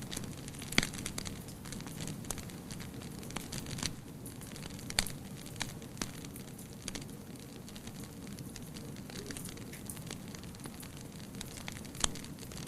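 Wood fire burning with a steady low rumble and irregular crackles and sharp pops, the loudest about a second in and near the end.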